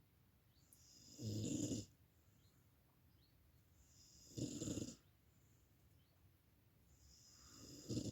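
A sleeping dog snoring: three snores about three seconds apart, each swelling briefly and then cutting off.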